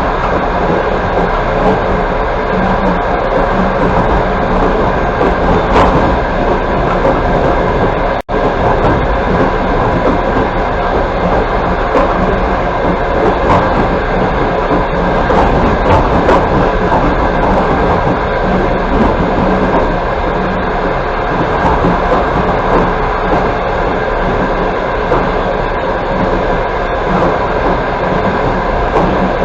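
Passenger train running along the line, heard from inside the carriage: a steady rumble of wheels on rails with a light clickety-clack. The sound cuts out for a moment about eight seconds in.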